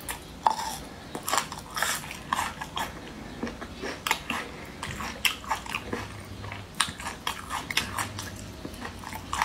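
A person chewing spicy braised meat close to the microphone: many quick, irregular clicks of biting and chewing, with a fresh bite taken near the end.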